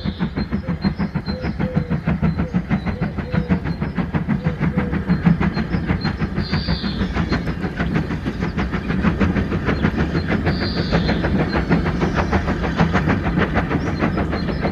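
A train running, with a fast, even beat over a steady low drone.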